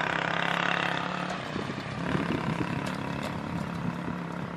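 A diesel-hauled passenger train moving away: a steady low drone from the locomotive with the hiss and rumble of the coaches on the rails, loudest in the first second and then easing a little.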